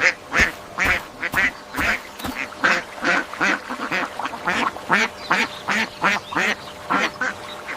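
Ducks quacking: a quick, unbroken series of short quacks, about three a second.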